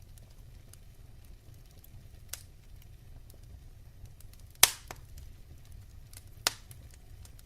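Wood fire burning in a fireplace, crackling with scattered faint ticks and three sharp pops, the loudest about halfway through, over a low steady rumble.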